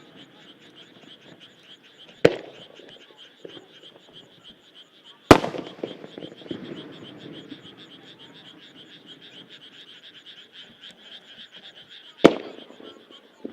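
Three separate booms of aerial firework shells bursting, each followed by a rolling echo, the second the loudest and the last near the end. Under them a steady, rapidly pulsing chorus of frogs.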